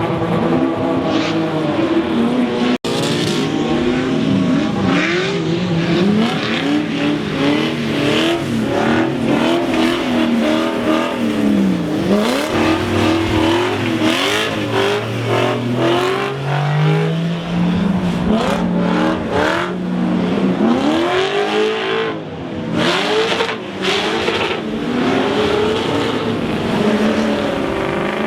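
Drift cars' engines revving hard, rising and falling sharply as the throttle is blipped on and off through the drifts, often several cars at once. There is a brief cut in the sound about three seconds in.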